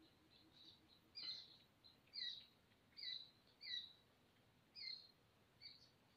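A bird calling: a run of six short, high chirps, each dropping slightly in pitch, spaced about a second apart, over faint outdoor hiss.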